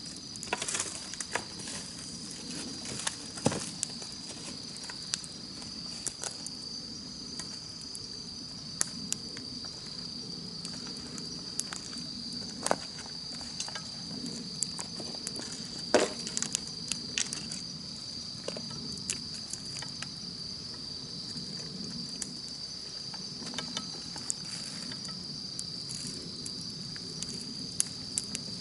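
Campfire crackling, with scattered sharp pops (the loudest about three and a half seconds in and again about sixteen seconds in) over a low steady rush of burning. Behind it, a steady high-pitched chorus of insects, like crickets, trills without pause.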